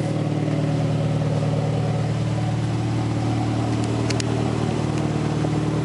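Toyota 3S-GTE turbocharged 2.0-litre four-cylinder idling steadily, heard through its Blitz Nur Spec exhaust tips.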